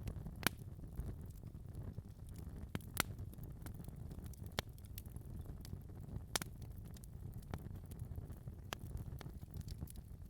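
Wood fire burning in a fireplace: a steady low rumble of the flames with irregular sharp crackles and pops, a few of them louder, about half a second, three and six and a half seconds in.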